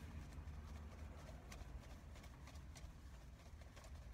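Faint, irregular clicks and smacks of a person chewing a sandwich, over a low steady hum inside a car's cabin.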